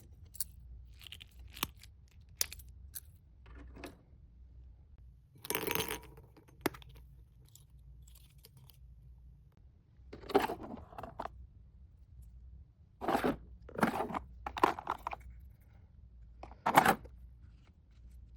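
Small items and packaging being handled: scattered light clicks and taps, with several short rustling, crinkling bursts of wrapping, the loudest near the end.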